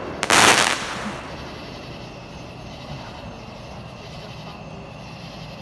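A firework going off: a sharp pop, then about half a second of loud burst noise that dies away within a second. Afterwards only a low, steady background remains.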